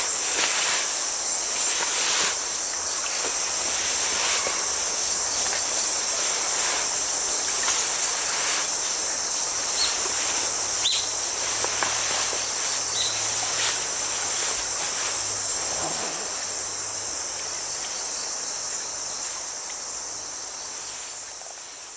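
A chorus of autumn crickets and other grass insects chirring steadily at a high pitch, with a few faint clicks, fading out near the end.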